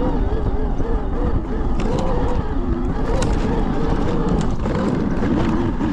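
Electric dirt bike's QS138 mid-drive motor whining, its pitch rising and falling with the throttle, over a steady low rumble, with a few sharp clicks.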